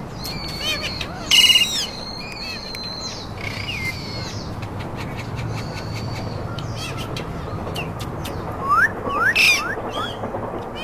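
Pet Alexandrine and ringneck parakeets calling: whistled notes and chirps, with a loud harsh screech about a second and a half in, a run of short rising chirps near the end and another loud call just after.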